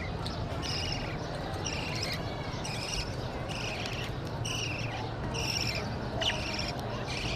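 Birds chirping in short repeated phrases, roughly one a second, over a steady low rumble.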